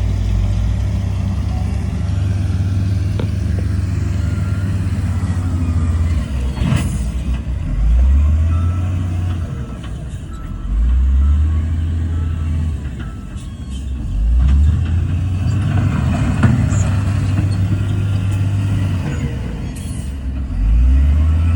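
Heavy diesel engine of earthmoving machinery working under load, a loud low drone that revs up and falls back repeatedly, with a few sharp metallic clanks.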